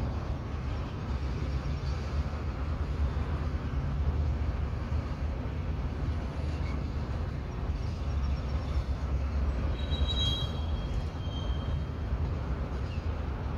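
Freight cars of a slow-moving transfer train rolling past, a steady low rumble of wheels on rail. A brief high-pitched squeal comes in about ten seconds in.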